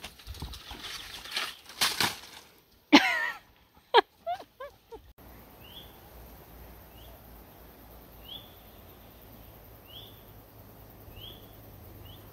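Footsteps and rustling on a forest track, then bird calls: a loud warbling call about three seconds in and a few quick falling notes, followed by one short high chirp repeated about every second and a half.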